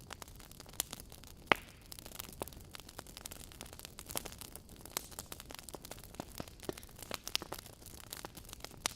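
Wood fire crackling: a soft steady hiss with irregular sharp pops and snaps, the loudest about one and a half seconds in.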